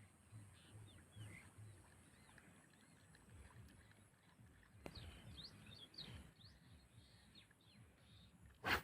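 Faint outdoor birdsong: many short chirps and trills over a steady, faint high drone. Near the end comes one short, loud noise, much the loudest thing here.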